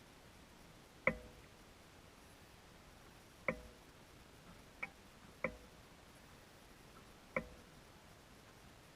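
Five sharp clicks at uneven intervals, each with a brief ring, over a faint steady hiss.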